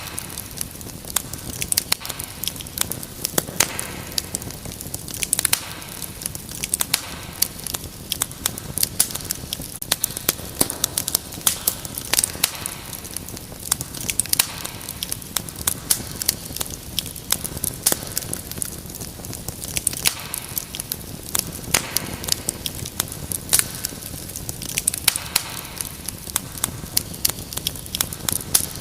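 Wood fire burning in a fireplace: a steady low rush of flames with many sharp, irregular crackles and pops.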